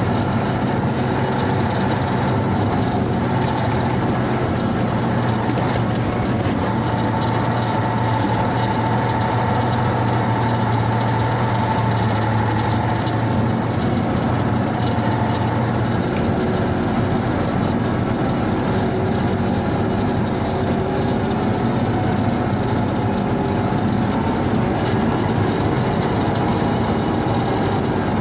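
Vehicle engine running steadily under way, heard from inside the cab on a rough dirt road; its low note changes about sixteen seconds in.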